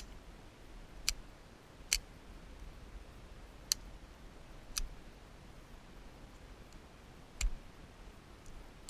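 Ruger 22/45 .22 pistol firing quiet low-powered rounds: five short, sharp snaps at uneven intervals, the one near the end with a dull thump.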